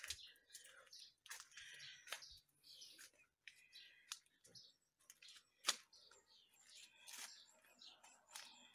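Faint birds chirping in short, scattered calls, with a few soft taps here and there.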